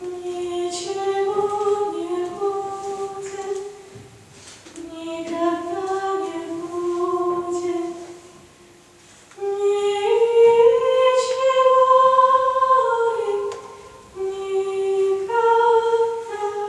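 Female voice singing a slow melody without accompaniment, in four long phrases of held notes with short pauses between them.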